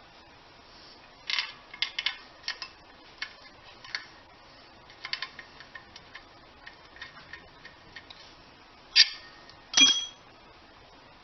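Irregular metallic clicks and clinks of hand tools and parts being handled, with two louder clanks near the end, the last one briefly ringing.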